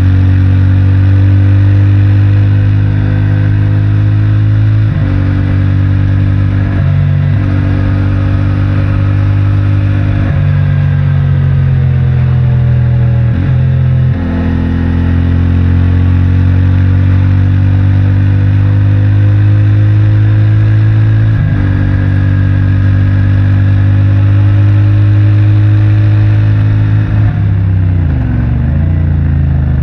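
CFMOTO 450MT motorcycle's parallel-twin engine pulling on its stock exhaust, heard from the rider's position. The engine note jumps in pitch several times as the revs change through the gears, then sinks and wavers near the end as the bike slows.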